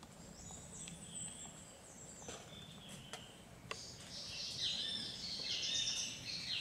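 Birdsong: high chirping and trilling phrases, loudest in the second half, with a few faint clicks a couple of seconds in.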